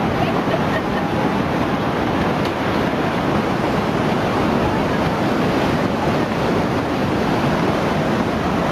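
Steady, dense rush of surging floodwater, a continuous noisy roar with no breaks.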